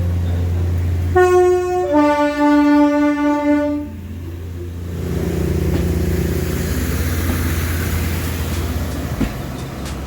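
A locomotive's two-tone horn sounds a short higher note, then a longer lower one, over the steady hum of the engine. A few seconds later the engine sound rises again and stays up.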